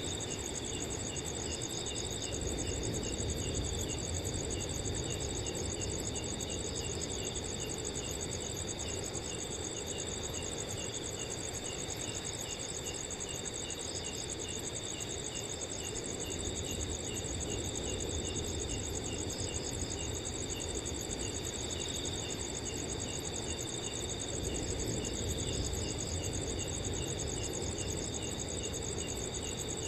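Crickets singing steadily at night: a continuous high trill together with regularly repeated chirps a few times a second. Underneath is a low rush of wind that swells gently now and then.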